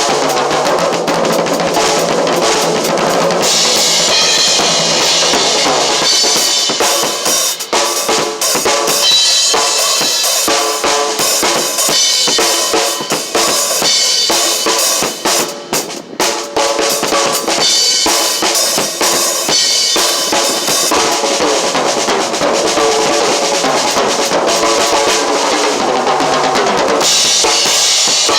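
Full drum kit played continuously, with bass drum and snare strokes over a pitched music track. There is a short break about halfway through.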